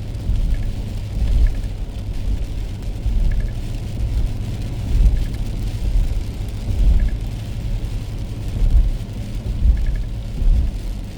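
Car driving on wet roads, heard inside the cabin: a steady low rumble of engine and tyre noise that swells and eases every second or two, with faint short clicks recurring every couple of seconds.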